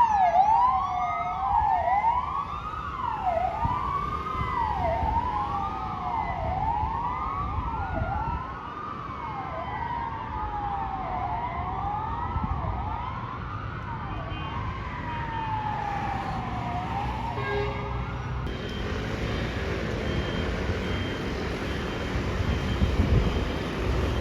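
Fire engine electronic siren wailing up and down about once a second, with two sirens overlapping at first, fading away as the vehicles drive off. After a cut near the end, road traffic noise takes over.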